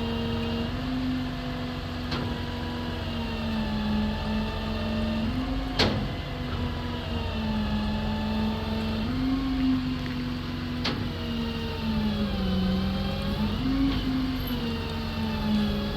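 Bucket truck running, a steady whine that dips and rises in pitch several times, with three sharp clicks.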